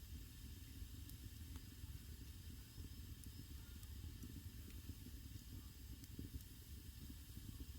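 Wood fire burning in a traditional Korean agungi firebox: a steady, low fluttering rumble of flames with a faint hiss and a few small crackles.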